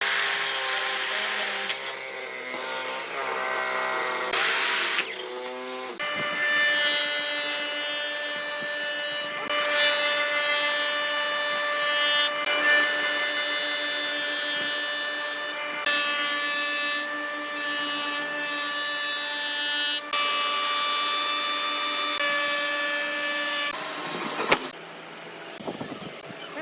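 Woodworking power tools running and cutting wood in a series of short clips, each a steady whine that changes abruptly from one clip to the next.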